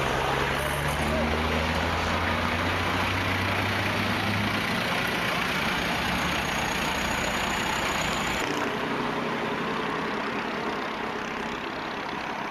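Truck engine running with a steady hum under a broad hiss of road noise; the low engine hum drops away and the sound changes abruptly about eight and a half seconds in.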